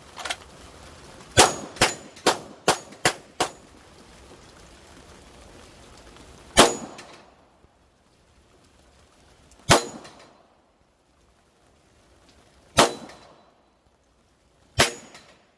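Pistol shooting, each shot ringing with a metallic clang as if striking steel targets. A quick string of six shots comes first, then four single shots spaced a few seconds apart.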